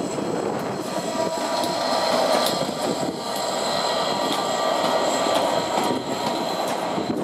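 A Class 67 diesel locomotive and its train of coaches passing: the locomotive's engine running, then a steady rumble of coach wheels on the rails with scattered clicks over the rail joints and thin, high, steady squeal tones from the wheels.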